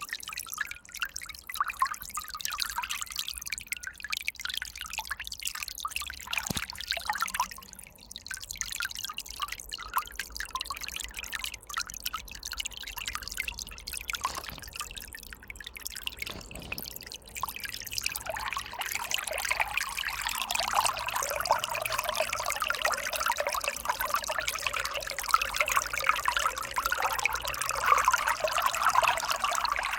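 River water running and trickling, with small drips and splashes; the flow grows louder and fuller about two-thirds of the way in.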